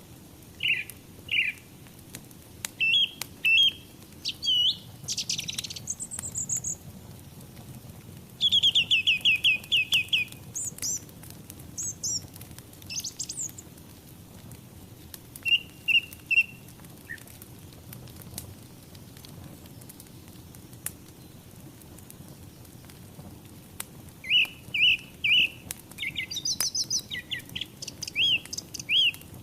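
Small songbirds chirping in bursts, with quick sweeping calls and a rapid trill about nine seconds in and another flurry of calls near the end. Underneath, a low steady rush from a wood fire with scattered faint crackles.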